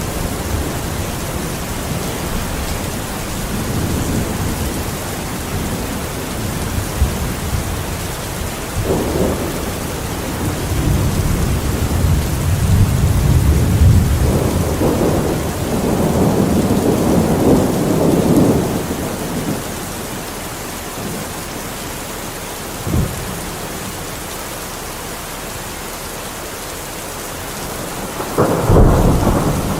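Steady heavy rain with thunder: long low rolling rumbles through the middle, a short sharp crack about two-thirds of the way in, and a loud thunderclap near the end.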